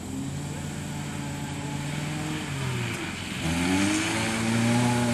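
A rallycross car's engine running at steady revs, dropping in pitch about two and a half seconds in, then revving up and getting louder from about three and a half seconds in as the car accelerates, with a hiss rising alongside.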